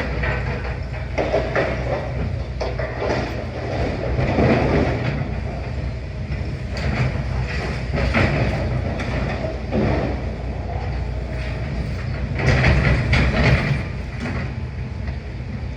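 Demolition excavator working: a steady low engine rumble under irregular clanking and clattering of metal and rubble.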